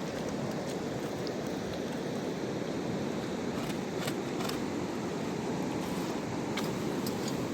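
Mountain river water rushing steadily, with a few light ticks about halfway through and again near the end.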